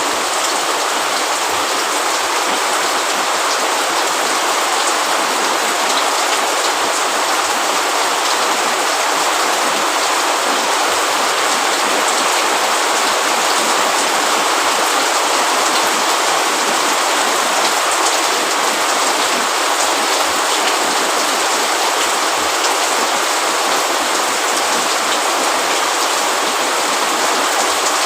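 Steady rain, an even hiss of drops falling on a roof and leaves, with faint scattered drop ticks and no change in strength.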